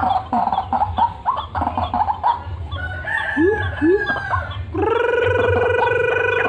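Loud calls of a truwok bird, a fowl-like bird: a run of short chattering, clucking notes with two quick upward-sliding notes in the middle. About two-thirds of the way in, a long, loud trilling call begins and holds on one pitch.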